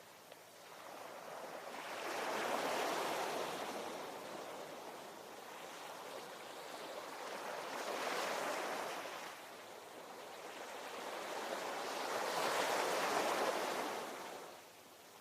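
Ocean waves breaking on the shore, three waves in turn each swelling to a rush of surf and washing back, about five seconds apart.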